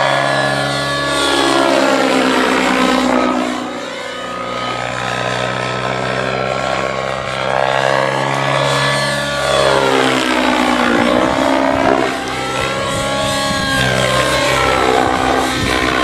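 Synergy N9 nitro RC helicopter in flight: its glow engine and rotor blades run steadily at high speed. The tone sweeps down and back up twice as the helicopter moves about.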